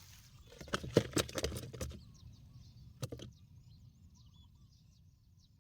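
A burst of sharp knocks and rustling, then one more knock, followed by faint, high birdsong chirping.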